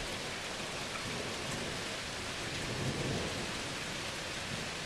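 Steady rain falling hard in a thunderstorm, an even hiss, with a faint low rumble of thunder swelling about halfway through.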